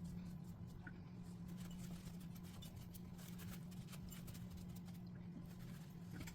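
Faint scratching and light ticks of small-parts cleaning work, a lock housing being wiped out of hardened grease, over a steady low hum.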